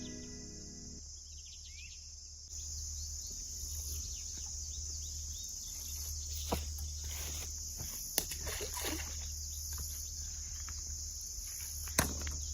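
Crickets chirring in a steady, unbroken high-pitched chorus, with a few faint clicks and knocks.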